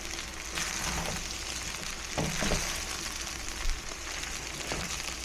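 Pan of fried rice sizzling steadily on the stove.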